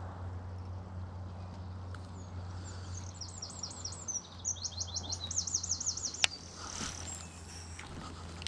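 A small songbird sings a quick phrase of high, rapidly repeated falling notes lasting about four seconds. A single sharp click follows about six seconds in, over a steady low hum.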